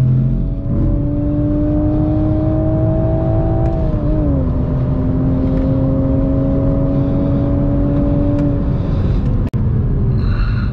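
Toyota GR Supra's 3.0-litre turbocharged straight-six heard from inside the cabin while accelerating. The revs climb, drop with an upshift about four seconds in, then climb again more slowly and fall away near the end as the driver lifts off.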